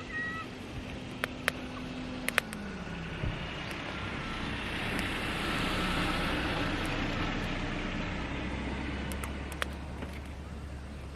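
A car passing by, its noise swelling to a peak mid-way and fading away, with a few sharp clicks scattered through.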